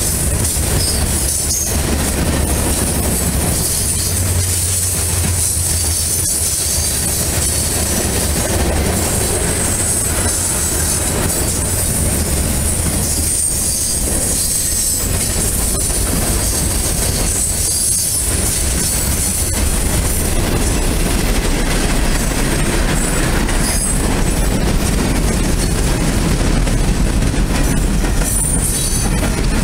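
Freight train cars rolling past close by: a continuous steady rumble of wheels on the rails, with a high steady wheel squeal riding over it.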